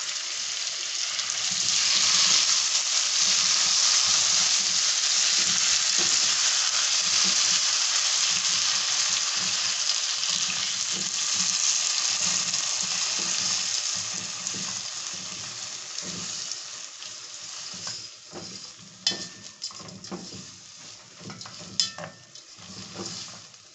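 Sun-dried omena frying with chopped tomatoes and salt in hot oil while a wooden spoon stirs them: a loud sizzle that swells about two seconds in. Past the middle the sizzle dies down, leaving the spoon scraping and knocking against the pan.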